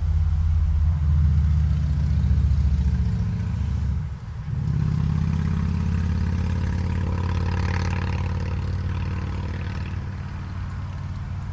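A motor-vehicle engine idling steadily, with a brief dip in level about four seconds in.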